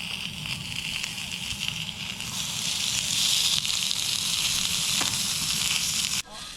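Pork belly sizzling in a hot pan, a steady hiss that grows louder through the middle and cuts off suddenly near the end.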